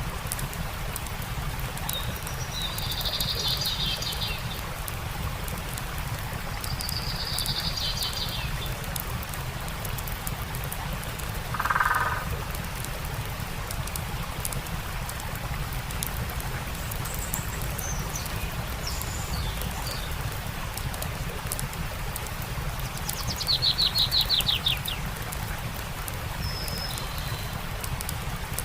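Steady rush of a stream with the light crackling of a campfire, while birds call now and then: short high chirps at several points, a lower call about twelve seconds in, and a fast trill of evenly spaced notes near the end.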